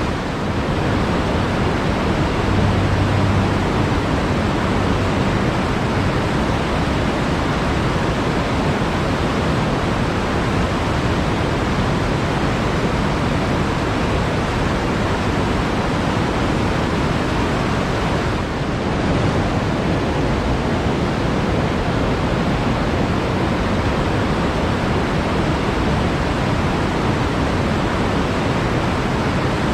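Water flowing steadily in a forest stream, a continuous even wash of sound.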